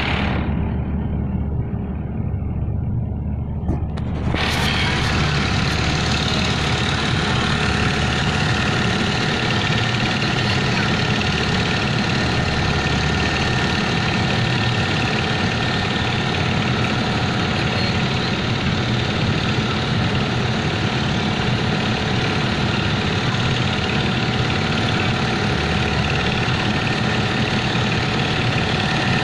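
An engine running steadily at an even speed, sounding muffled for the first four seconds or so and then clear.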